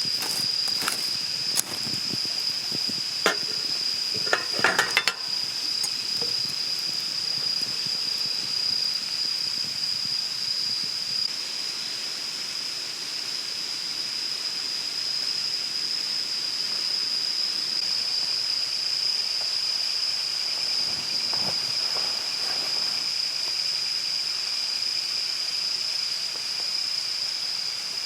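Insects singing in a steady, high-pitched continuous trill. A few sharp clicks and clinks come in the first five seconds.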